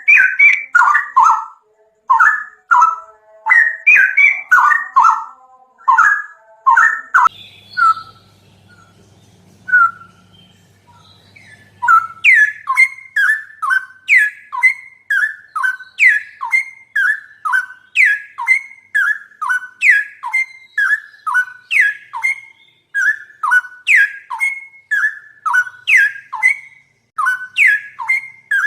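A bird calling over and over in loud, whistled notes that each fall in pitch, about two a second. The calls thin out to a few single notes for several seconds about a quarter of the way in, then resume in a steady, even run.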